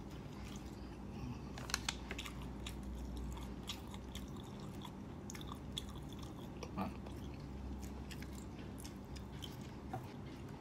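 A person chewing and biting into fried tofu and rice, with scattered small crunches and mouth clicks over a steady low hum.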